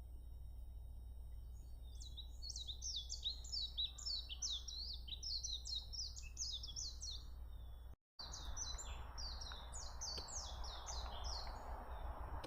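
Songbird singing long runs of rapid, high twittering notes in two bouts, the second starting after a brief break, over a steady low rumble.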